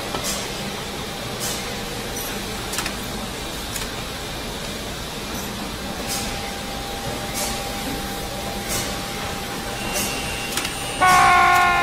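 Construction-site background noise: a steady mechanical din with occasional short knocks. Near the end a loud tone starts suddenly and slowly falls in pitch.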